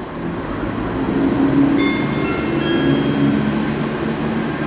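Class 168 diesel multiple unit's underfloor diesel engines running, with a steady low hum and several thin, higher whining tones coming in from about one and a half seconds in. Wind buffets the microphone underneath.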